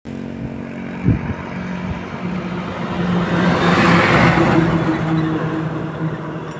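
A truck passing by on the road: a steady engine hum with a rush of engine and tyre noise that swells to a peak about four seconds in and then eases off. A short thump about a second in.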